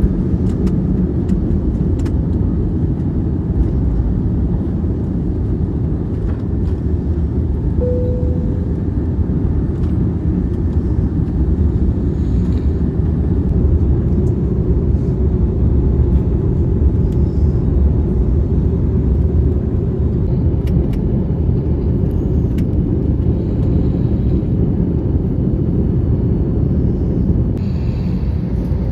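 Steady low rumble of an Airbus A321neo cabin, engines and airflow heard from inside the aircraft, with a brief soft tone about eight seconds in.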